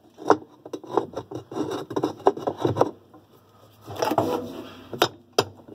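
Irregular knocks and scraping of a wrench working on the reverse-threaded nut of a washing machine's basket hub, being forced loose. A longer scrape comes about four seconds in, followed by two sharp knocks near the end.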